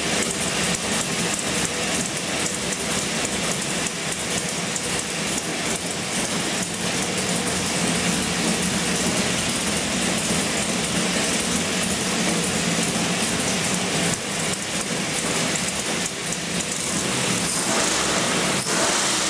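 A 427 cubic inch LS7 V8 road race engine running on an engine dyno at a steady speed: a loud, even drone that neither rises nor falls.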